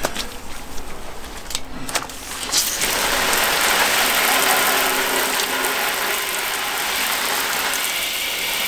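A few clicks, then from about three seconds in a steady hiss of water from a garden hose spray gun rinsing the wet-sanding slurry off a motorcycle fuel tank.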